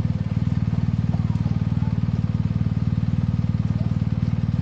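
Motorcycle engine idling steadily, heard close up from the bike itself, an even low rumble.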